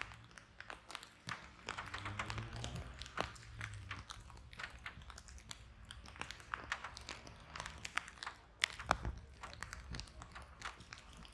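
Fireplace fire crackling, with irregular sharp pops and a few louder pops about nine seconds in.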